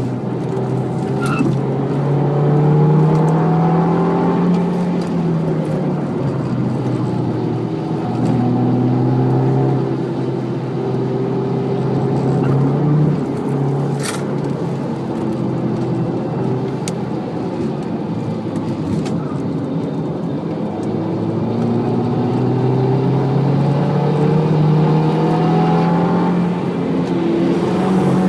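Audi TT Mk2's 2.0 TFSI turbocharged four-cylinder engine on a circuit lap, heard from inside the cabin. Its pitch rises under acceleration and falls back as it lifts and brakes for corners, several times over.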